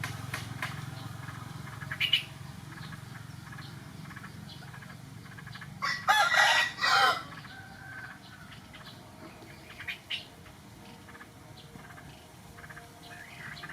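A rooster crows once, about six seconds in, for over a second. A few short calls come before and after it.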